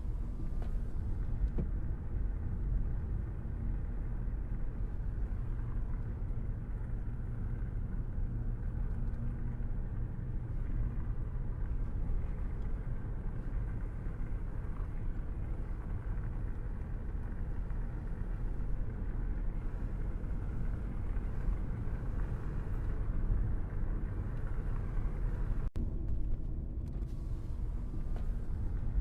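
Car driving along a road, with a steady low rumble of engine and tyre noise and a momentary dropout near the end.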